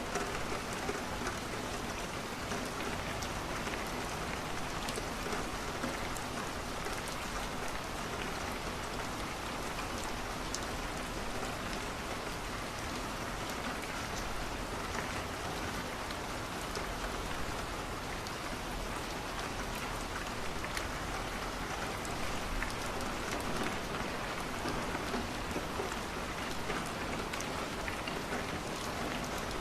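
Steady rain falling on a window, mixed with a wood fire crackling in a fireplace: an even hiss with scattered small pops.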